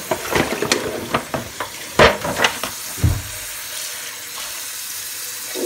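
Kitchen tap water pouring into a foil pan of water while hands rinse a salmon fillet, splashing and sloshing over the first three seconds, then a steady pour.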